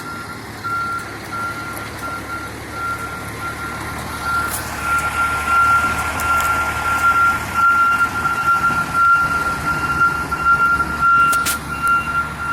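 Fire engine backing up: its diesel engine running under a reversing beeper that repeats steadily, the engine growing louder about four to five seconds in as it works harder, with a sharp click near the end.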